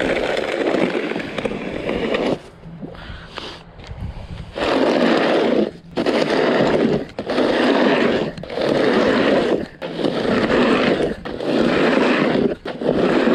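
Repeated scraping strokes of light snow being cleared, each about a second long, about one every 1.3 seconds, with a quieter pause from about two to four and a half seconds in.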